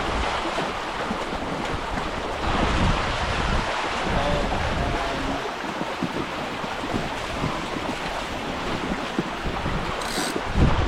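Water rushing along a Hobie 16 catamaran's hulls under sail at speed, with heavy wind buffeting the microphone. There is a brief, sharper hiss near the end.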